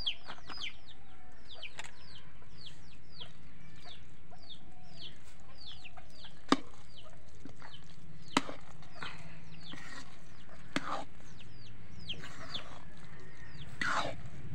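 Birds chirping over and over, about two short falling chirps a second. A metal spoon clinks sharply against the steel pan twice midway, while the biryani is stirred.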